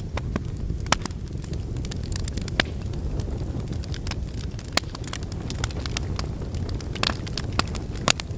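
Wood fire burning in a fireplace: a steady low rumble of flame with frequent, irregular sharp crackles and pops from the logs.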